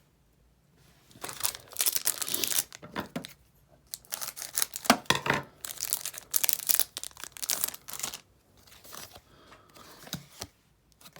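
A card-game booster pack wrapper being torn open and crinkled by hand, in rough noisy bursts for several seconds, then fainter rustling near the end.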